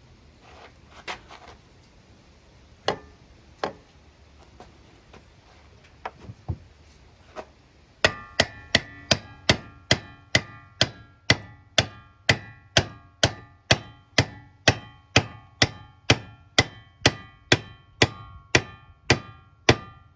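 A few scattered knocks, then about eight seconds in a steady run of hammer taps on metal, a little over two a second, each with a short ringing note. This is a new bearing being tapped down into its housing on a Central Machinery wood lathe.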